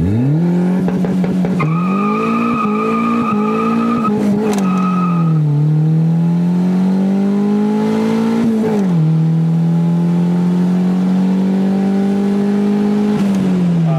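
Turbocharged car's engine at full throttle from first gear, heard from inside the cabin: the engine note climbs and falls back at each gear change, then drops as the throttle is lifted near the end. A high whistle sits over the first few seconds.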